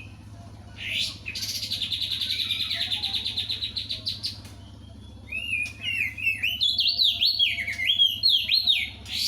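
Crested white-eye singing loudly: a rapid trill of about three seconds, then, after a short pause, a string of quick, slurred whistled notes that dip and rise in pitch.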